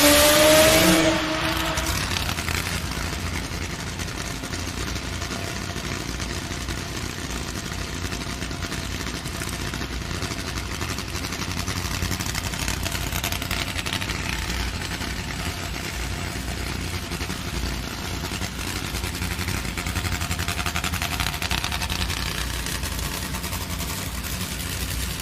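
Top Fuel drag-racing motorcycles: a loud rev that ends about a second in, then the engines running with a steady low rumble.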